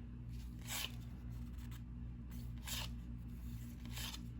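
1990-91 NBA Hoops cardboard trading cards being slid off a stack one at a time: four short, soft swishes about a second apart, over a steady low electrical hum.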